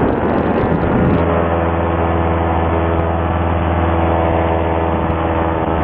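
Simonini two-stroke paramotor engine running steadily under power in flight, at an even pitch that settles about a second in after a rush of wind noise, heard through a helmet intercom microphone.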